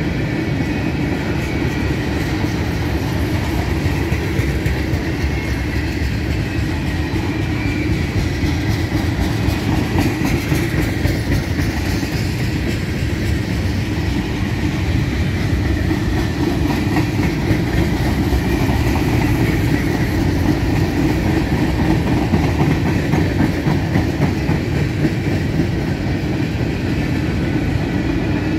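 Freight train cars (boxcars, tank cars and centerbeam flatcars) rolling steadily past, their wheels rumbling and clattering on the rails at an even level.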